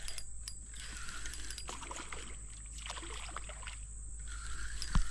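Kayak paddle strokes in the water, a swish about every two seconds, with small clicks and one sharp knock near the end.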